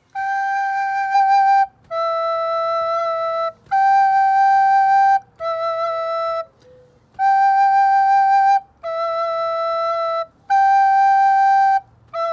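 Soprano recorder playing G and E back and forth as held half notes, each about a second and a half long, with a short breath between notes and a longer pause about halfway through. This is a slow two-note practice drill.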